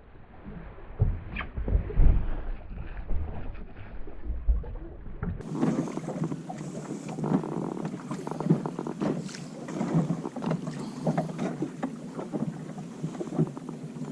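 Wind and water slapping around a small drifting fishing boat, with scattered small knocks. About five seconds in, the sound changes abruptly from muffled with a low wind rumble to a clearer, brighter wash of water and wind.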